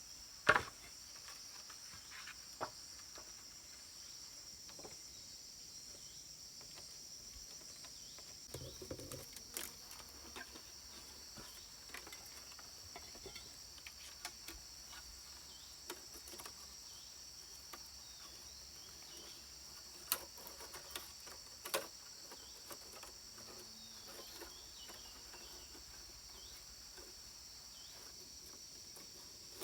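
Steady high-pitched chorus of insects, with occasional sharp knocks, the loudest about half a second in.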